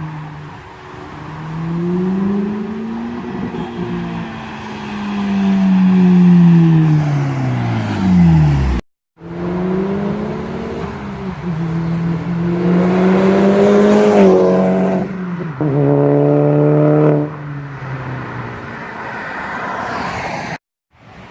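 Turbocharged car with a catless downpipe and Magnaflow cat-back exhaust, accelerating hard: the engine note climbs and falls through the revs, with a gear change in the second half. It is heard in two clips broken by brief cuts to silence.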